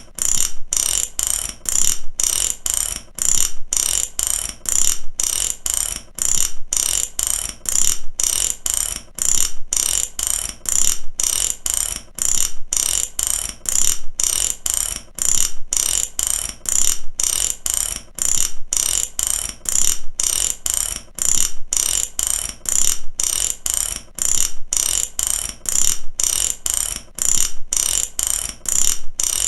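Ratchet wrench clicking in steady, repeated strokes, its pawl rattling over the gear teeth in quick runs of clicks with no pause.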